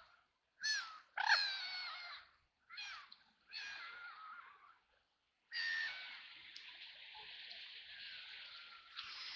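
White domestic ducks quacking: a few short, harsh quacks with quiet gaps between them, then a longer unbroken stretch of harsh calling from just past halfway.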